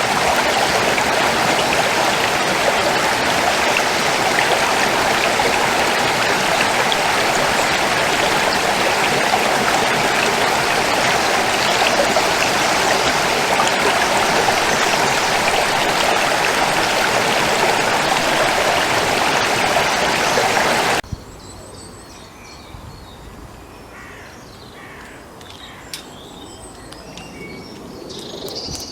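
Stream water rushing steadily, then cutting off suddenly about two-thirds of the way through, leaving a much quieter background with bird calls and chirps.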